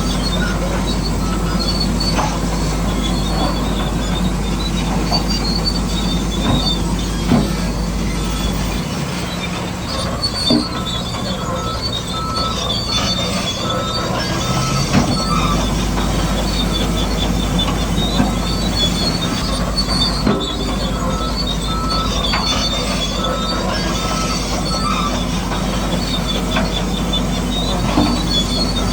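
Radio-controlled model construction machines running: a steady whine of electric motors and gears with high-pitched squeaks and scattered clicks, the low hum easing for a few seconds near the middle.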